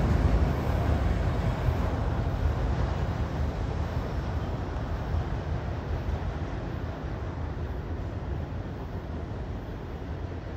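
Freight train of autorack cars rolling away on the rails: a steady low rumble of wheels and cars that fades gradually as the train recedes.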